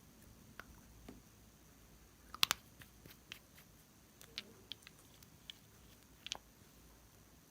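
Slime being handled and squeezed, giving scattered small clicks and pops, with a sharper double pop about two and a half seconds in.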